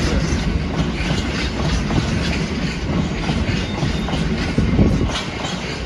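A train running past with a steady rumble, its wheels clicking and clattering over the rail joints.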